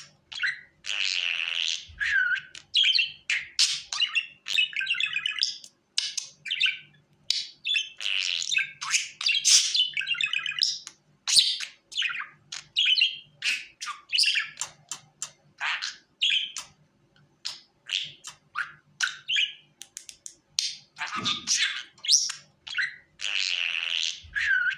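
Budgerigars chirping and warbling in quick, almost unbroken runs of short, high calls, with a brief pause past the middle.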